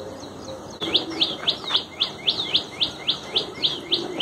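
A bird calling in a fast, regular series of short, sharp rising notes, about four a second, starting about a second in. Fainter, higher chirps come before that.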